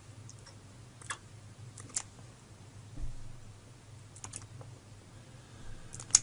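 A few scattered sharp clicks and taps, with a dull thump about three seconds in and the loudest click at the very end, over a faint steady hum.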